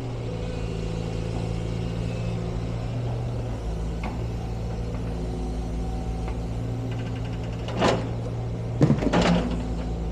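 Heavy demolition machine's engine running steadily, with a loud crash about eight seconds in and a clattering burst about a second later as it works at the building.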